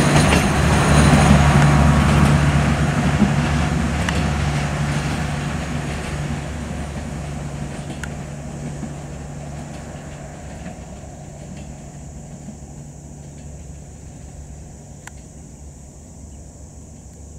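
Passenger train's coaches rolling away along the track, the rumble of the wheels on the rails fading steadily as it recedes, with a few scattered clicks.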